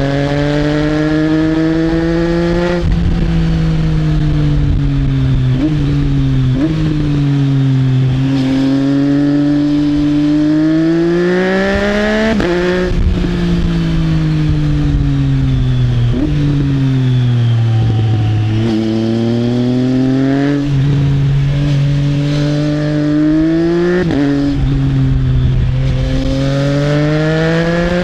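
Triumph Trident 660's inline three-cylinder engine through an Arrow exhaust, revs climbing and falling as the bike accelerates and slows through bends. Several quick gear changes show as sudden jumps in the engine note, typical of a quickshifter.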